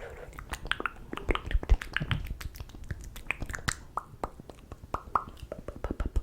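Close-miked ASMR mouth sounds: wet tongue clicks and lip pops in a quick, irregular run of several a second, some with a short falling pitch.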